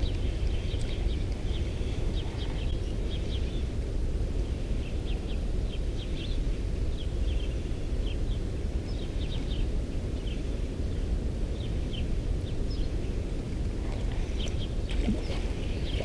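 Small birds chirping in short, scattered calls throughout, over a steady low outdoor rumble.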